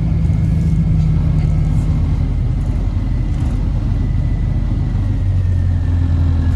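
Orion VII hybrid bus, heard onboard: its Cummins ISB diesel engine runs with a steady low drone that drops lower about five seconds in, while the BAE HybriDrive electric drive's faint high whine slowly falls in pitch.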